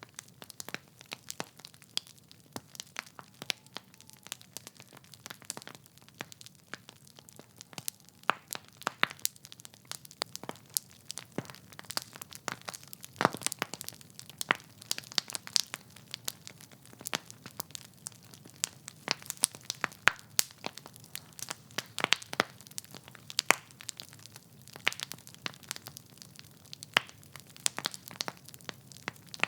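Wood fire burning in a fireplace: logs crackling with many irregular sharp pops and snaps over a soft low rumble of the flames.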